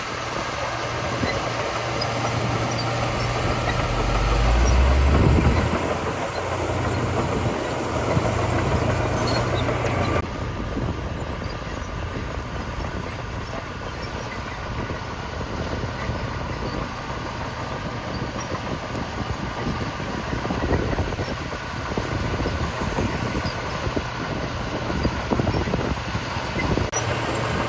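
Heavy diesel construction machinery running steadily, with a louder low surge of engine about five seconds in. The sound changes abruptly about ten seconds in.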